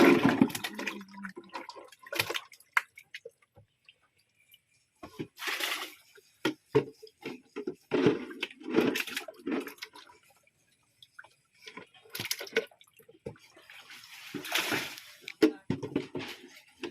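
Water splashing in short bursts, with brief stretches of quiet voices between them.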